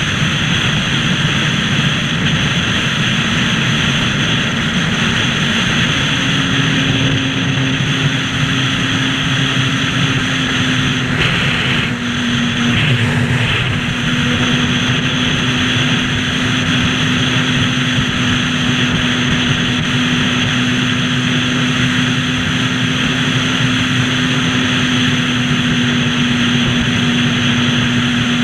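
Motorcycle engine running at a steady cruising speed under a rush of wind noise, the engine's pitch holding steady through most of the ride.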